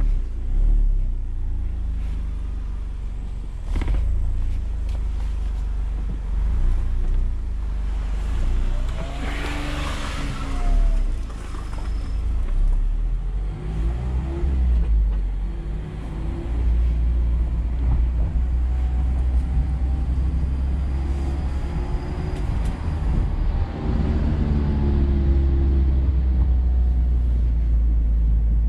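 Mazda MX-5 Miata's four-cylinder engine heard from the open-top cabin, its pitch rising and falling several times as the car accelerates and eases off, over a steady low rumble of road noise. A louder rush of noise comes about nine seconds in.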